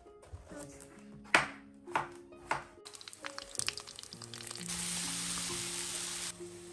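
Three sharp knife strokes through an eggplant onto a wooden cutting board, then eggplant pieces sizzling as they fry in hot oil in a pan for about two seconds, with soft background music underneath.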